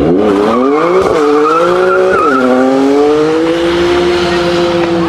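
A high-performance car engine accelerating hard through the gears. The pitch climbs, drops sharply at an upshift about a second in and again a little past two seconds, then rises slowly and holds steady in the higher gear.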